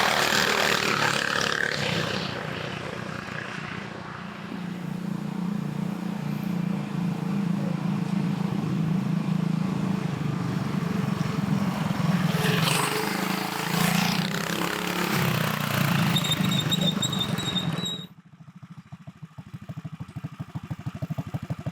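Go-kart engines, ungoverned 420cc Predator single-cylinders, running flat out in a drag run, with a steady hum that slowly builds. Near the end the sound drops suddenly to a quieter, evenly pulsing engine note that grows louder again.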